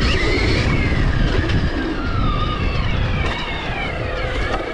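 Stark Varg electric dirt bike's motor whining, its pitch rising and falling with the throttle as the bike is ridden over the track, under a heavy low rumble of wind and riding noise on the mic.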